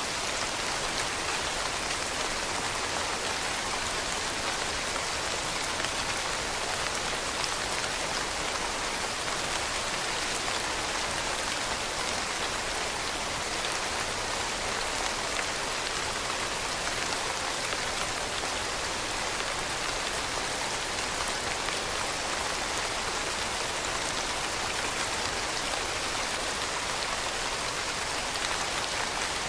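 Steady rain falling on leaves, an even patter of drops with no let-up.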